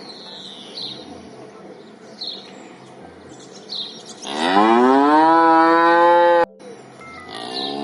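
A cow mooing once, a long call about four seconds in that rises in pitch and then holds steady before cutting off abruptly. Faint high chirps sound in the background before it.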